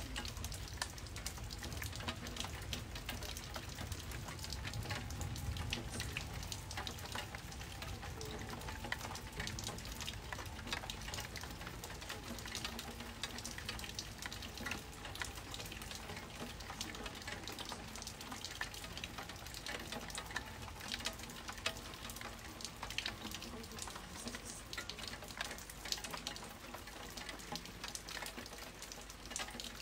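Rain falling on a hard surface close by, a steady hiss full of small drop ticks.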